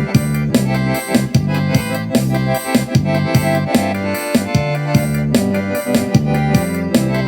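Instrumental music with an accordion (sanfona) playing held chords over a steady percussive beat, about three beats a second.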